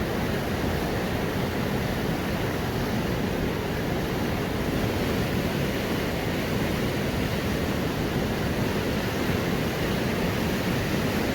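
Steady rushing of river water flowing past the mill, an even noise with no breaks or changes.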